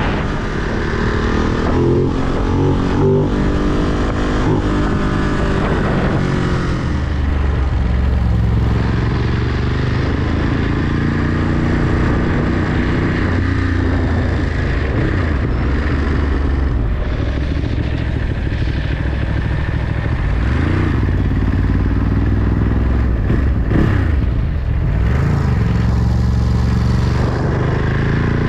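Ducati Monster 937's L-twin engine under way on the road, its pitch rising and falling several times as it accelerates and the revs change.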